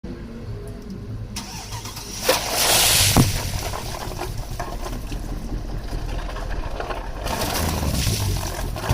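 Mercedes-Benz C63 AMG V8 starting up: the engine catches and flares loudly for about a second, roughly two seconds in, then settles to a steady idle through its exhaust.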